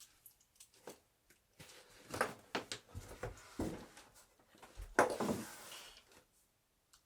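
Wooden bed parts being handled during assembly: a run of knocks and clatters with some scraping in between. The knocks come thicker in the middle, and the loudest lands about five seconds in.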